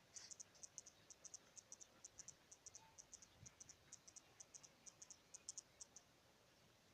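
Faint, high-pitched chirping: quick short chirps in pairs and triplets, about six a second, that stop about six seconds in.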